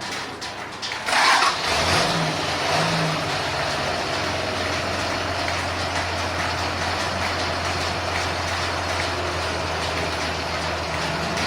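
An engine starting with a loud burst about a second in, then running steadily at idle.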